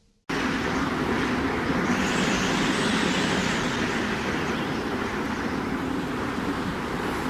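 Strong wind blowing: a steady rushing noise that cuts in sharply just after the start, with a gust swelling and growing brighter about two to three seconds in before easing back.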